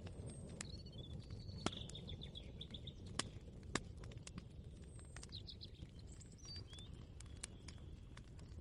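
Small birds chirping in short repeated trills, over a steady low rumble of background noise, with scattered sharp clicks and knocks.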